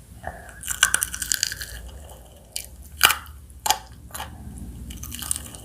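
Crispy fried chicken crunching as it is bitten and chewed: a dense crackle about a second in, then single sharp crunches every half second or so.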